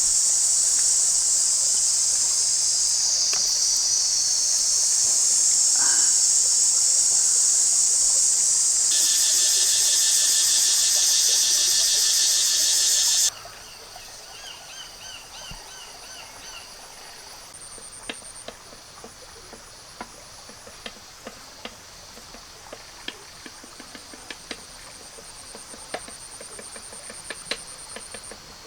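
Loud, high-pitched insect chorus buzzing steadily, turning into a fast pulsing buzz about nine seconds in and cutting off suddenly about four seconds later. After that it is much quieter, with scattered small clicks and faint high chirps.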